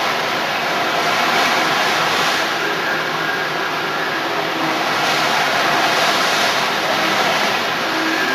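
CNC plasma torch cutting steel: a loud, steady hiss of the plasma arc and air jet.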